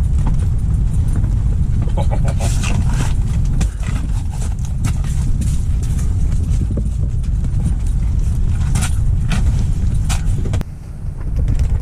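Strong wind buffeting the microphone, a steady low rumble that eases briefly near the end, with scattered clicks and knocks from gear being handled.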